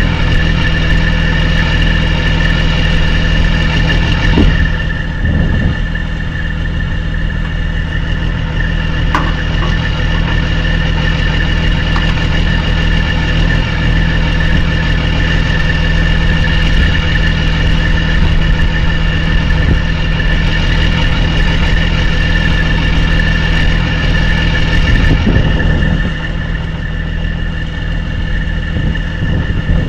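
Diesel semi-truck engine idling steadily, with a constant high whine over the low engine note.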